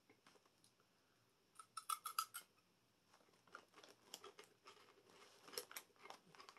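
Faint crunching of crisp veggie straws being chewed: a quick run of crackles about two seconds in, then scattered softer ones.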